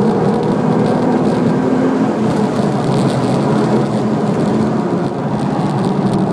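Nissan GT-R's twin-turbo V6 running at fairly steady revs through a corner, heard from inside the cabin over road noise, easing slightly about five seconds in.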